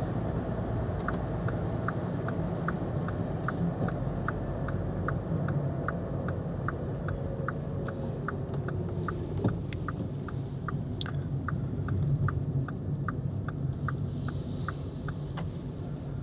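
Turn-signal indicator ticking evenly, a couple of ticks a second, inside the cabin of a VW e-Up electric car, over a low steady rumble of tyres and road.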